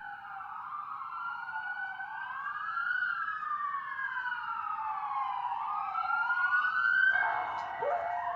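Several sirens wailing at once, their rising and falling tones crossing over each other. About seven seconds in they give way to a steady held tone.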